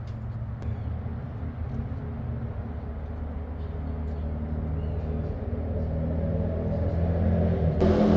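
Highway traffic: a vehicle's engine hum builds steadily as it approaches. A louder rush of road noise comes in suddenly near the end.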